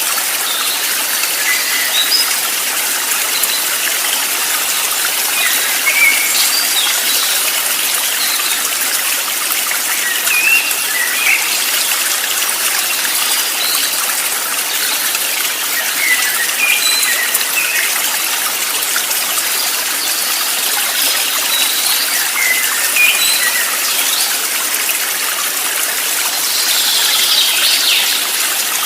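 Steady rushing of a stream of running water, with birds chirping now and then: short, high calls scattered throughout.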